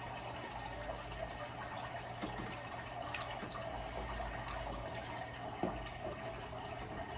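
Steady room background of low hum and hiss, with a few faint clicks.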